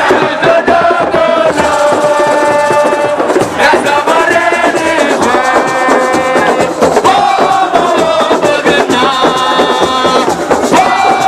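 Voices singing and chanting together over a shaken rattle, loud and continuous.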